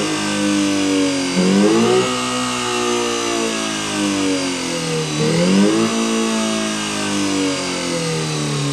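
Synthetic engine sound from a homemade optical engine-sound generator imitating a Subaru EJ20 boxer four with equal-length exhaust. It is revved up sharply twice, about two seconds in and again about five seconds in, and each time the pitch sinks slowly back down.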